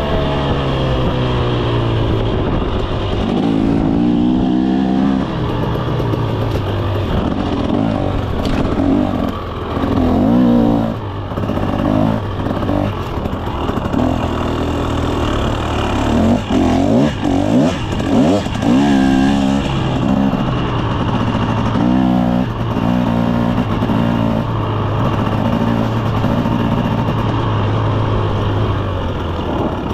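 2024 KTM 300 SX two-stroke single-cylinder dirt bike engine, ridden hard: it revs up and drops back again and again, with quick rises in pitch as the throttle is opened.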